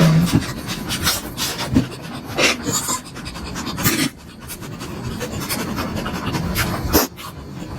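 Close-miked chewing and mouth sounds of someone eating momos (steamed dumplings): an irregular run of wet smacks and clicks.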